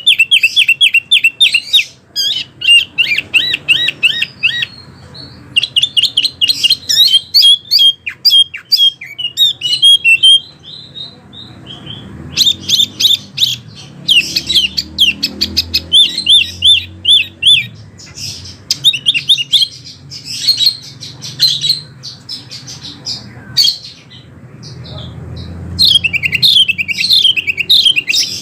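A wambi songbird singing in long runs of rapid, sharp, high chirping notes. Short pauses break the runs, and then it starts again.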